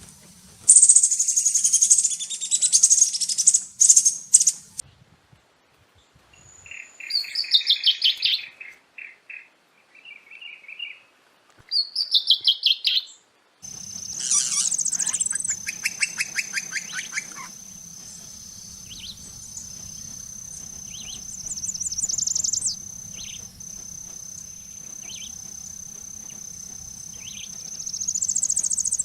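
Several songbirds singing in a row of separate recordings with short silent gaps between them: bright high warbling first, then lower whistled phrases and trills. About halfway through, a steady high-pitched insect drone comes in under repeated short bird calls and a fast trill.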